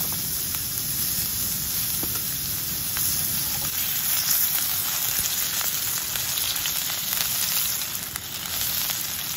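Kangaroo burger patty frying in oil in a pan on a butane camping stove: a steady sizzling hiss with occasional small crackles.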